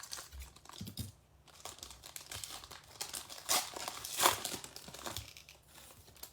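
A trading-card pack wrapper being handled and opened, crinkling and tearing, with the loudest crackles about three and a half and four and a half seconds in.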